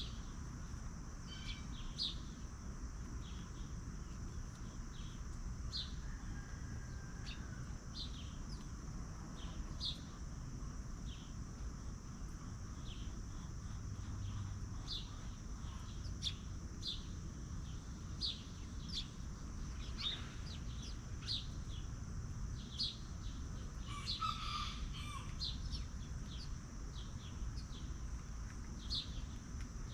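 Farmyard ambience: short high bird chirps repeat throughout over a steady high insect drone, with a brief chicken call about twenty-four seconds in.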